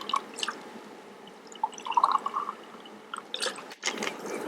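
Liquid dripping and splashing into a drinking glass, a few drops at a time, with some faint clicks.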